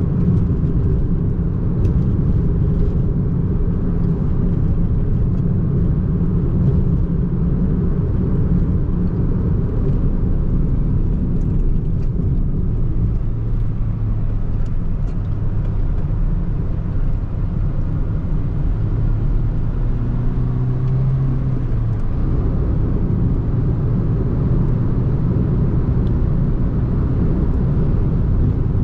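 A 2005 Renault Twingo I's 1.2-litre four-cylinder petrol engine running under way, with steady low road rumble. The engine note shifts pitch a few times and rises briefly about two-thirds of the way through.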